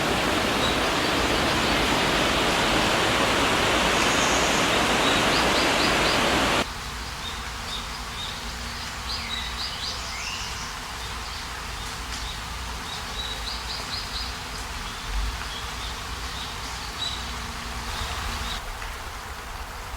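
River water rushing over rocks, a loud steady roar that cuts abruptly about a third of the way in to a quieter flow. Small birds chirp in short trills over the quieter water.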